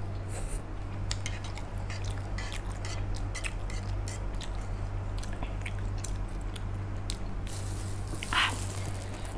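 Close-up chewing and wet mouth sounds of someone eating instant noodles: many small smacks and clicks. A short, louder breathy rush comes near the end.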